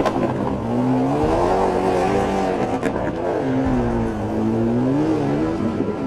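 Mitsubishi Lancer Evolution rally car's turbocharged four-cylinder engine revving hard, its pitch rising and falling several times as the car accelerates.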